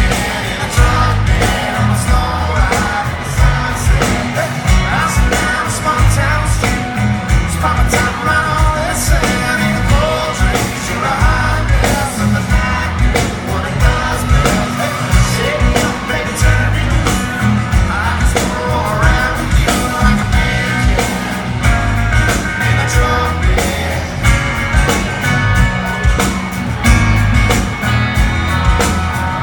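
Country rock band playing live, with steady drums and singing over the band.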